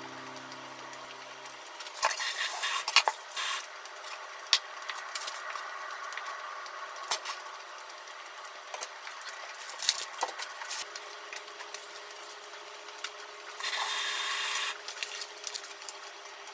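Hands handling sliced ham and cheese on a wooden cutting board: rubbing and rustling with scattered light clicks and knocks. There are rustling bursts about two to three and a half seconds in and another steady rustle of about a second near the end.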